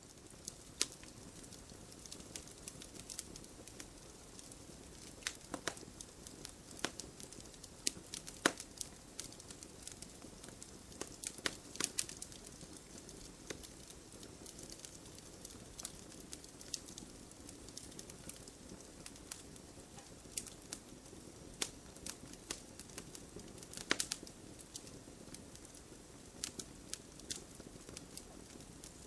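Wood fire burning: a steady low hiss with irregular crackles and occasional sharper pops.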